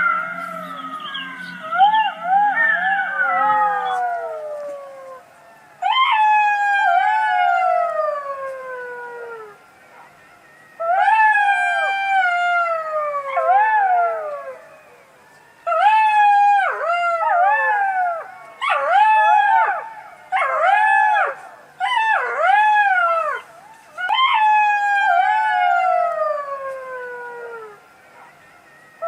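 Fox giving repeated high, wavering howl-like calls. Each call slides down in pitch over one to three seconds, and the calls come in bouts separated by short pauses.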